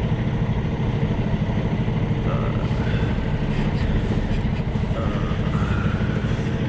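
Semi truck's diesel engine running steadily at low speed while the tractor backs up to slide the trailer's tandem axles. A few faint brief tones sound in the middle.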